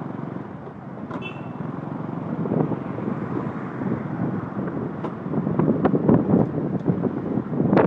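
Road traffic noise, a steady rumble with a brief high-pitched tone about a second in, and irregular gusty surges that grow louder in the second half.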